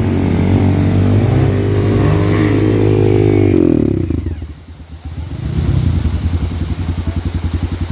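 Motorcycle engine running at steady revs, then dropping to a low, evenly pulsing idle a little under four seconds in as the throttle closes.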